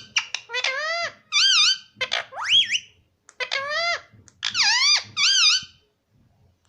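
Pet rose-ringed parakeet (Indian ringneck) giving a run of about seven short, high-pitched squeaky calls with wavering pitch, one of them sweeping upward, before a brief pause near the end.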